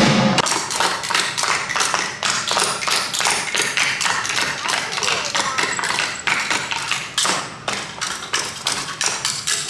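Rapid, irregular tapping and knocking, several sharp taps a second.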